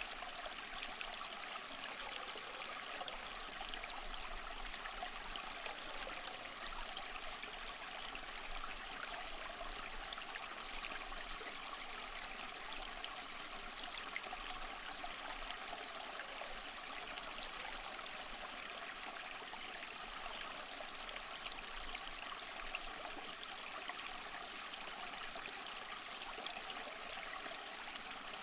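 Water flowing steadily, an even continuous rush with no breaks or splashes.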